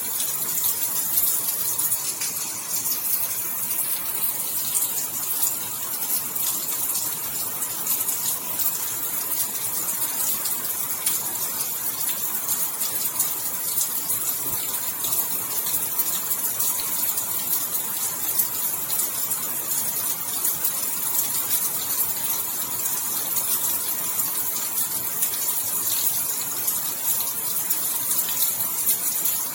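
Steady heavy rainfall: a dense, even hiss of many fine drops.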